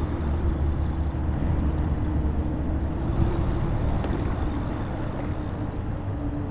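Riding noise from an e-bike on a street: steady low rumble of wind and tyres on the road, with a faint steady hum running throughout.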